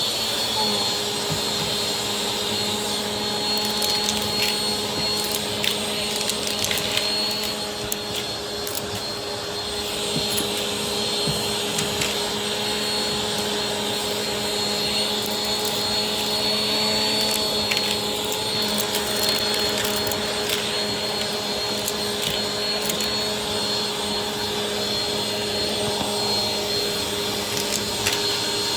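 Vacuum cleaner running steadily, with a high whine and occasional clicks; its motor pitch dips slightly just after the start.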